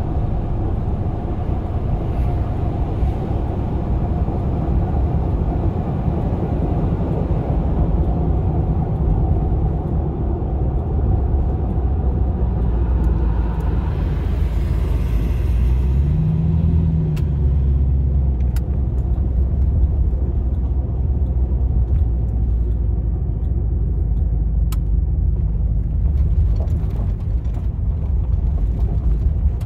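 V8 engine of a GMC Vandura / Chevy G20 van running under way with a steady low rumble. Just past the middle there is a brief hiss and a short rise in engine pitch, and the sound is duller in the second half.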